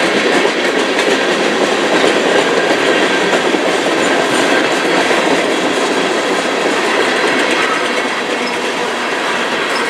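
Railroad cars rolling past close by: a steady rumble and clatter of steel wheels on the rails, easing slightly near the end.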